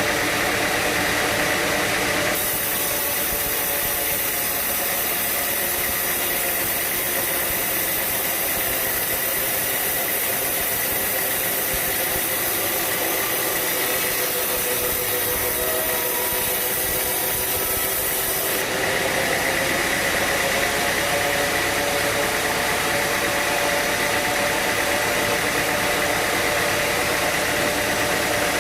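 Sawmill machinery running steadily with a hum of several steady tones. For about sixteen seconds in the middle a high hiss joins it and the hum changes, then the earlier sound returns.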